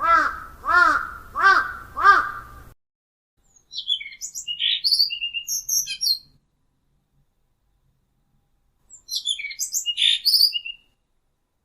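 Birds calling: four harsh caws about a second apart, then two bursts of quick, high, twittering birdsong with silence between them.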